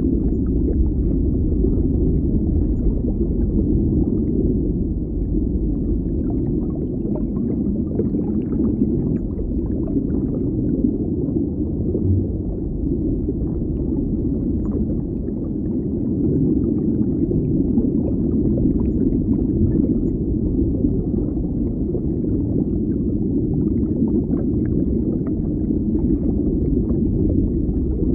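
Underwater ambience: a steady, low, muffled rumble of water with faint scattered crackles.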